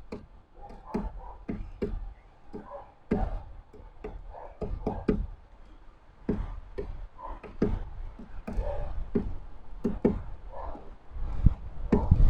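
Birds pecking and moving about on a bird feeder close to the microphone: irregular knocks and taps with dull thumps, a little more than one a second, growing louder near the end.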